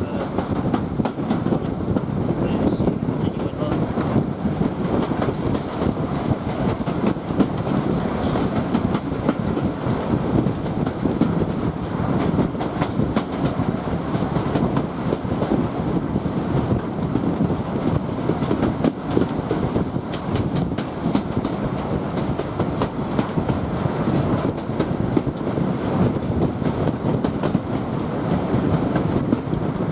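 Steady rumble of a heritage railway coach running along the track, heard from aboard the train, with the clickety-clack of wheels over rail joints.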